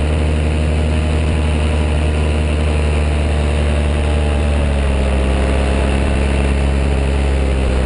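Small aircraft engine and propeller running steadily in flight, with wind noise; the engine note dips slightly in pitch about five seconds in.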